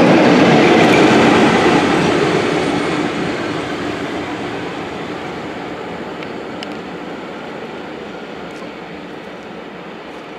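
Carriages of a passenger train running past on the rails, the wheel-on-rail rumble loud at first and then fading steadily as the tail of the train draws away.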